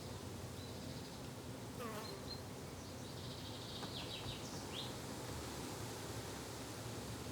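Summer garden ambience of insects buzzing steadily, with a few short high chirps about two seconds in and again around four to five seconds in.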